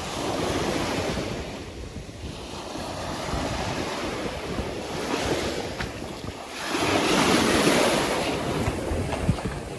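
Sea waves washing onto a beach, rising and falling in surges, with wind buffeting the microphone; the biggest surge comes about seven seconds in.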